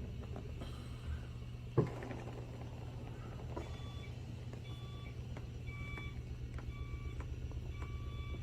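Massage machine motor running with a steady low hum and fast pulsing, with a sharp knock about two seconds in. From about halfway, a repeating electronic beep sounds about once a second.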